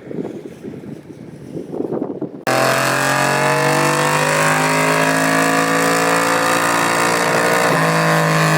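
A quieter, irregular rustling noise, then about two and a half seconds in a loud engine cuts in abruptly and runs at a steady, held speed, its pitch wavering slightly.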